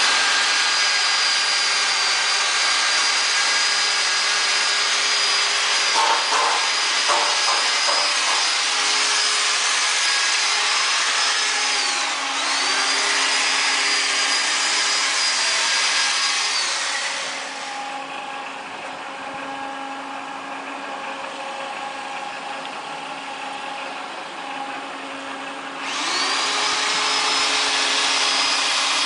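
Truck loading conveyor machinery running with a steady motor whine and hiss. There are a few knocks about six to eight seconds in, and the pitch dips briefly a little before halfway. The louder hissing part stops for about eight seconds and then starts up again, its pitch rising back.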